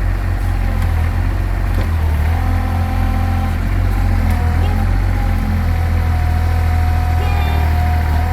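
Engine of a ride-on mini excavator running steadily. A thin whine comes and goes above it, mostly in the second half, as the digger's levers are worked.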